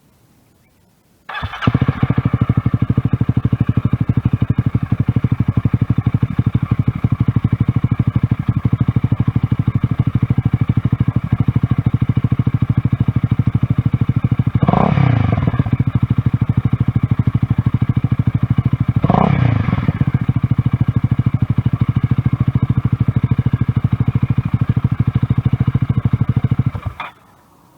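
Honda Rebel 250's single-cylinder engine, fitted with an aftermarket slip-on muffler, starts about a second in and idles. It is briefly revved twice in the middle, then shut off near the end.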